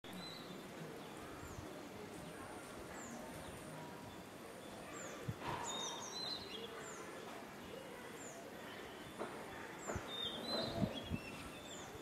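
Small birds calling: a short, high, falling chirp repeated about once a second, with a few busier twittering notes about halfway through and again near the end, over faint outdoor background noise. A few soft low thumps come in the second half.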